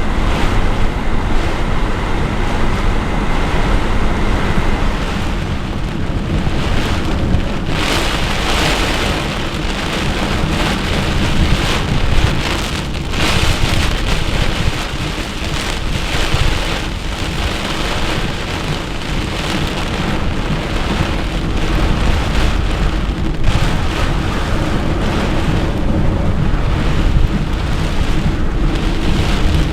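Heavy, blinding rain pouring down in a severe thunderstorm, a dense steady hiss that swells in strong gusts several times.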